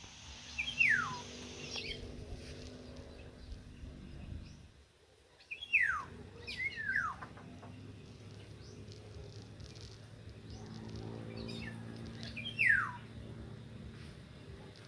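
A bird calling with loud, clear whistles that slide steeply downward in pitch, four of them: one about a second in, two close together around six to seven seconds, and one near the end, over a faint low steady hum.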